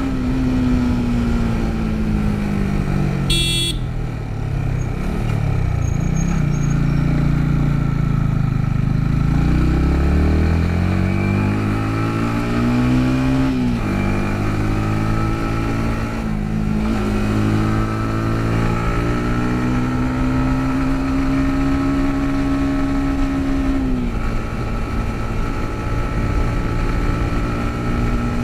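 Yamaha MT-15's single-cylinder four-stroke engine, heard from the rider's seat. It slows for the first few seconds, then accelerates through the gears, its pitch climbing and dropping at each shift. It holds a steady speed, then eases off the throttle near the end. A brief high beep comes about three and a half seconds in.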